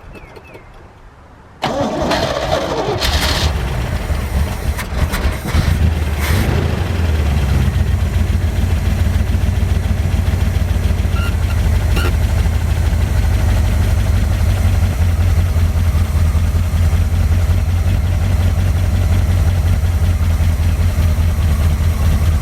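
1973 Chevy K20 pickup's engine cranking over about two seconds in and catching, running rough for a few seconds, then settling into a steady idle. A first start after winter storage, primed with gas splashed down the carburetor and fed from a test tank.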